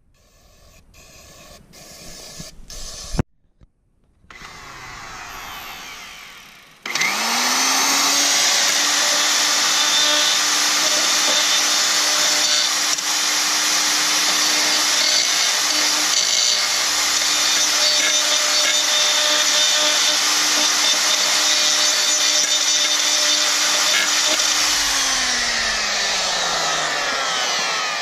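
A few clicks and handling noises, then a handheld electric power tool starts about seven seconds in. Its motor quickly spins up to a steady high-speed whine with a hiss above it, runs for about seventeen seconds, and then winds down. It is likely being used on a cracked pit bike clutch cover before JB Weld goes on.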